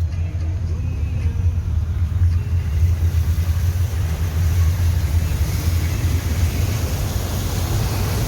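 Car driving through floodwater: a steady low rumble from the vehicle, with a hissing wash that grows louder from about three seconds in.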